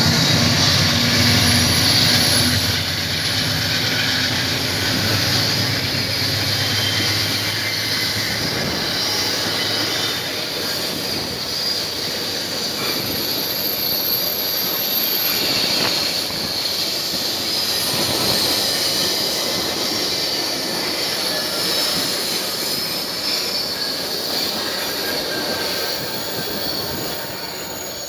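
Steel wheels of passenger coaches rolling past close by on the rails: a steady rumble with a high, continuous wheel squeal. It eases off near the end as the last coach goes by.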